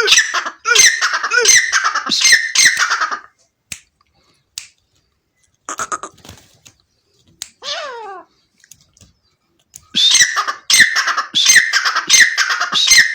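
Partridge calling: loud, harsh calls repeated in quick succession for about three seconds. A few quieter calls follow around the middle, then a second loud run of calls starts about ten seconds in.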